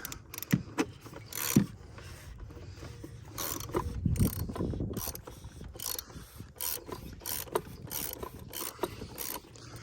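Hand ratchet clicking in a series of short back-and-forth strokes, the pawl ticking over irregularly as the oil filter housing cap is tightened down.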